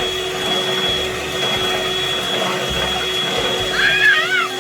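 Electric mixer motor running steadily, beating the wet donut-dough ingredients, with a brief high-pitched voice-like sound near the end.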